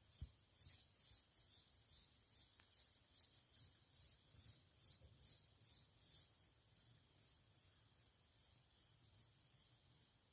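Faint chirping of crickets or similar night insects, a high-pitched pulse repeating about three times a second. A soft low thump sounds right at the start.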